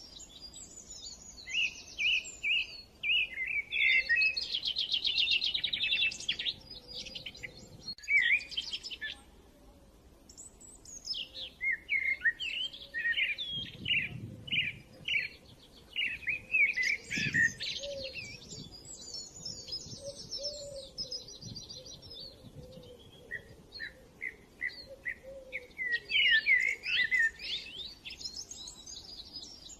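Small birds chirping and singing: bouts of quick repeated chirps and trills, broken by brief lulls.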